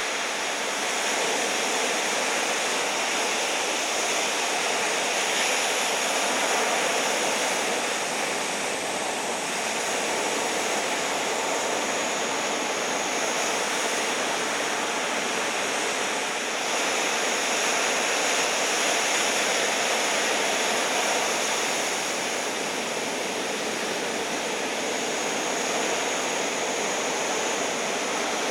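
Steady rush of breaking ocean surf from heavy typhoon swell, swelling and easing gently with no separate crashes standing out.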